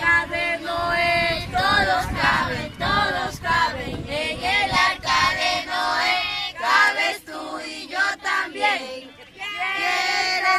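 A group of children singing together, several high voices at once in short repeated phrases.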